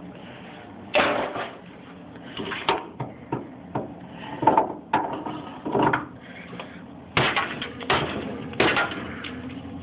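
Hammer striking and chipping ice built up inside a refrigerator: about a dozen irregular blows.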